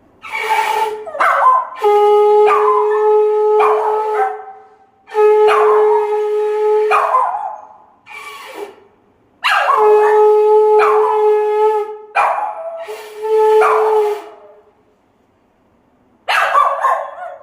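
A conch shell (shankh) blown in four long, steady blasts, with a dog howling and yipping along around and between them. The dog calls again once more near the end.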